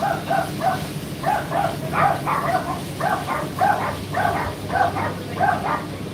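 A dog barking repeatedly in quick runs, about three barks a second, over the steady low hum of an Indesit IDC8T3 condenser tumble dryer running.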